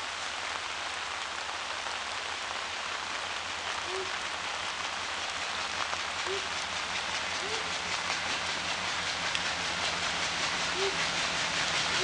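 Steady monsoon rain falling on the platform and tracks, a continuous hiss, growing slowly louder toward the end as an approaching train nears. A few short, faint chirps sound now and then over the rain.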